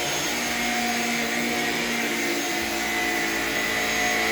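Shark Rocket self-cleaning stick vacuum running steadily with a motor whine, its tone shifting slightly about two and a half seconds in.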